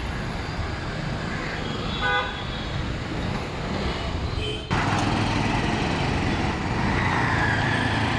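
Busy street traffic noise with a short vehicle horn toot about two seconds in. Just before halfway the traffic noise jumps abruptly louder.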